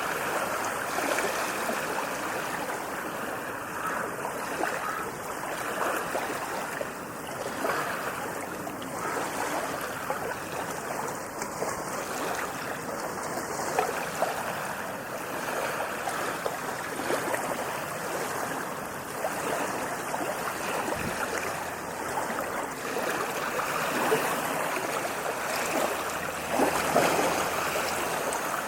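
Ocean waves washing onto a beach: a continuous rush of surf that swells and eases, with one slightly louder surge near the end.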